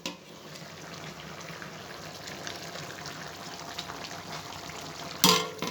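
A large pot of chicken curry simmering with a steady bubbling crackle, nearly cooked through. A loud clatter comes near the end.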